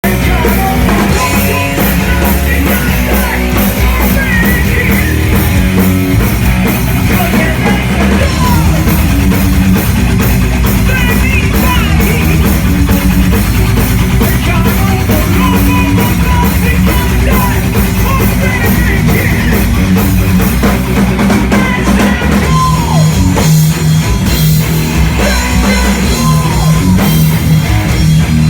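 Rock band playing loudly live, with a drum kit keeping a steady beat under bass and electric guitar.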